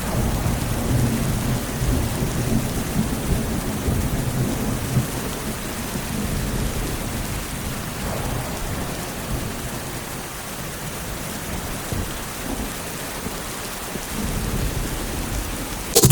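Thunderstorm: steady rain hiss under low, rolling thunder rumble, with the rumble heaviest in the first few seconds.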